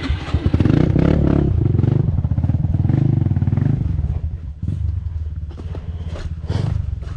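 Dirt bike engine running under throttle on a trail, loudest over the first few seconds, then easing off briefly and carrying on a little quieter, with some clattering and scraping.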